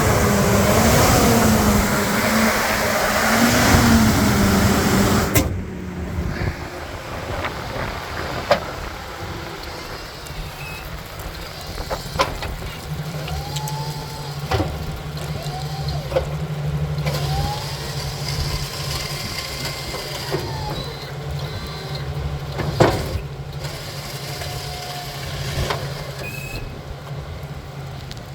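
Chevrolet plow truck's engine running, heard as a steady low hum with scattered clicks and a few short whining tones. The first few seconds are much louder and noisier, then the sound drops off suddenly.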